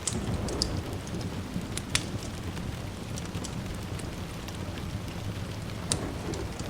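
Steady rain with a low rumble of distant thunder that swells near the start and again near the end. A few sharp clicks stand out over the hiss.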